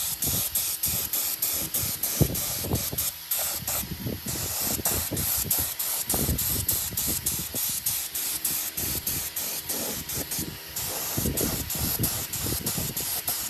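Steady spraying hiss that thins briefly about four seconds in and again near eleven seconds, with frequent faint ticks running through it.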